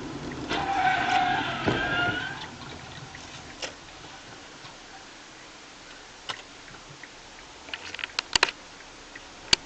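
A siren sounds for about two seconds with a wavering pitch. It is followed by a few sharp clicks or knocks near the end.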